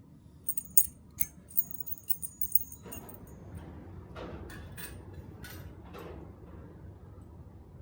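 Metal keys clinking and jingling as they are handled and dropped, with a quick run of sharp, ringing clinks. From about three seconds in come softer scraping or rustling strokes.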